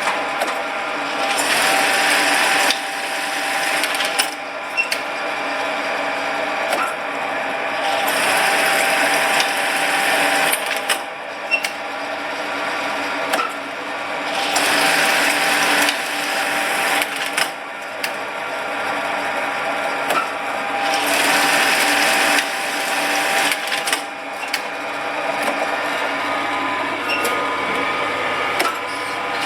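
Brother 814 industrial buttonhole sewing machine test-running: a steady motor hum with louder stretches of stitching a few seconds long, repeating in cycles, separated by sharp clicks.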